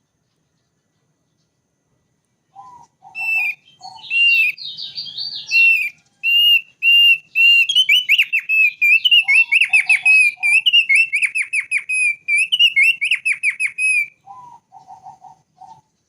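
Thick-billed white-eye singing: after about two and a half seconds of silence, a long, fast twittering song of rapid high whistled notes runs for about eleven seconds. Short low notes come just before the song starts, once in the middle and again after it ends.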